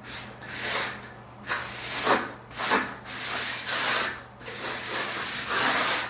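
A float scraping and smoothing dry-pack shower-pan mortar, a gritty rubbing in a run of repeated strokes, some short and some longer.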